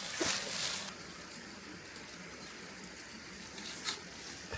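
A brief rustle in the first second, then a faint steady hiss with two small clicks near the end, typical of handling rice straw.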